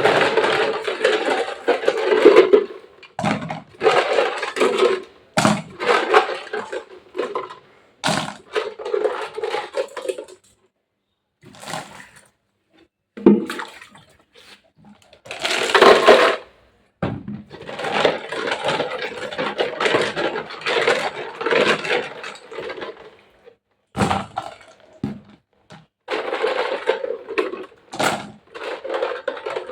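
Rushing, splashing water noise in repeated stretches of a few seconds each, cutting off abruptly into silence between them.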